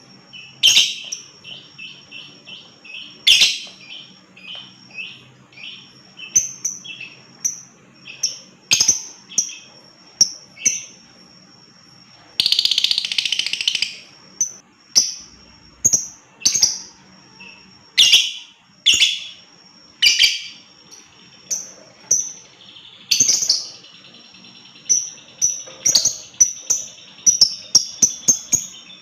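Lovebird (Agapornis) calling: sharp, high chirps, some in quick runs of several a second, with one harsh chattering burst of about a second and a half midway.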